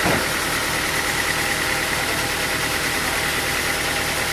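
An engine idling steadily, with a single brief thump right at the start.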